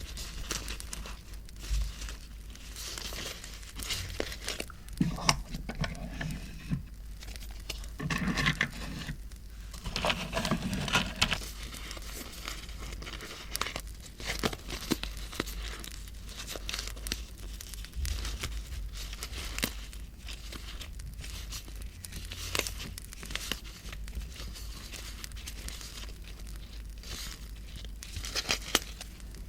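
Close-up crinkling and rustling of paper and packaging being handled, with a few tearing sounds, over a background of many small crackles from a bonfire sound.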